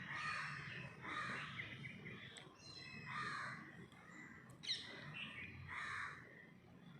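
Faint bird calls: a series of short chirps and harsher calls, roughly one every second.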